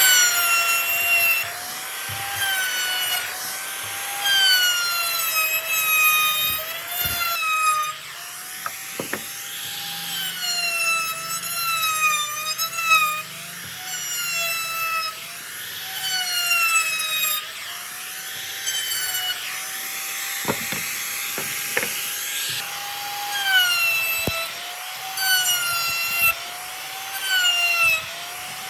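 A handheld power tool's motor whining as it works wood, its pitch sagging and recovering every second or two as it is pressed into the work and eased off, over a rasping of the wood. A few light knocks come through now and then.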